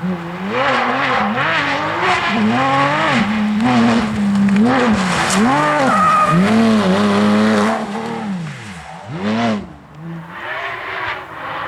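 Porsche 911 GT3 rally car's flat-six engine revving hard, its pitch rising and falling again and again through gear changes and lifts. About eight seconds in it drops back, with one short rev a little later and quieter revving near the end.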